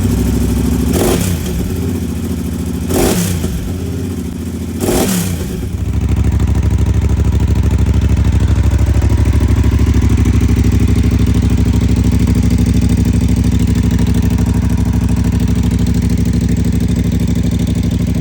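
Yamaha TDM 900 parallel-twin engine breathing through an aftermarket IXIL 2-in-1 exhaust, blipped three times, each rev rising and falling, about two seconds apart. After that it settles into a louder steady run.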